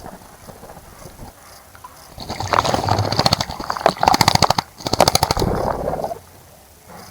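A small bird bathing in a bird bath, flicking its wings in the water to make rapid runs of splashing. The splashing starts about two seconds in and stops about six seconds in.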